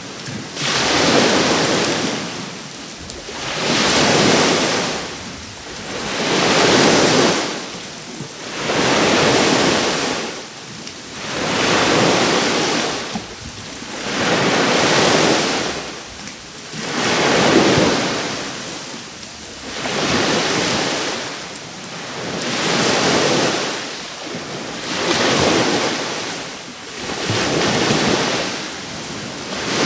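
Small sea waves breaking and washing up a beach in a steady rhythm, the surf swelling and fading about every two and a half to three seconds.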